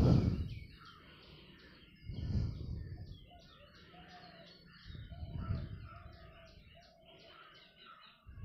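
Small birds chirping in quick, repeated short notes, with a steadier call in the second half. Three swells of low rushing noise come at the start, about two seconds in and about five seconds in.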